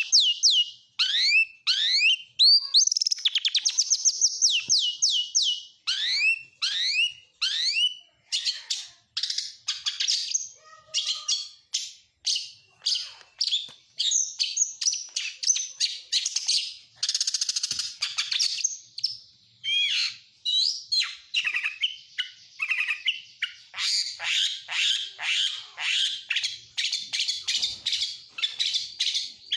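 Oriental magpie-robin (kacer) singing a continuous, varied song of rapid downward-sweeping whistles and fast chattering trills, laced with mimicked phrases of other birds such as lovebird, canary and prenjak.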